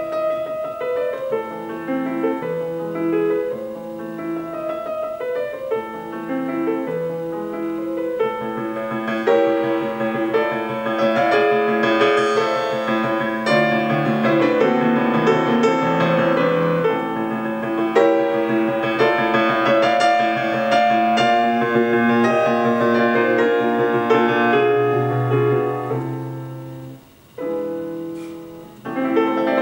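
Piano music played back through a small DIY speaker with Dayton ND65 drivers, tuned with a bass boost. The music dips sharply for a moment near the end, then resumes.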